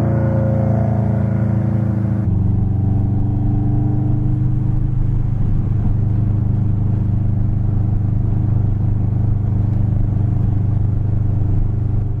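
2004 Subaru WRX's turbocharged flat-four running at steady revs through a catless Spec D exhaust, a deep droning note. About two seconds in the sound changes abruptly and turns duller, then holds steady.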